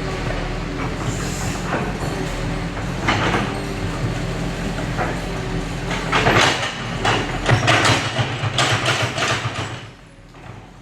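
Crawler bulldozer's diesel engine running under load while its steel tracks clank and squeal in bursts. The sound falls away sharply near the end.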